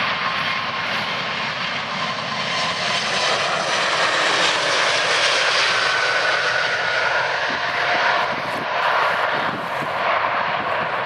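Jet airliner engines running: a loud, steady rushing noise with a thin high whine that shifts in pitch partway through.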